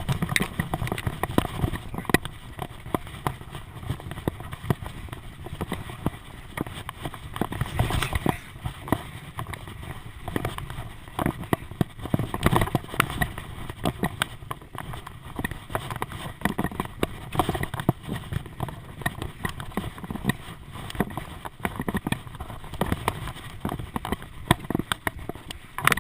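Bicycle riding as picked up by a bike-mounted action camera: continual irregular rattling and knocking over a low rumble.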